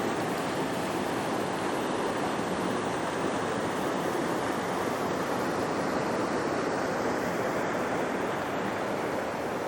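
Steady rush of a mountain stream cascading over rocks and small falls.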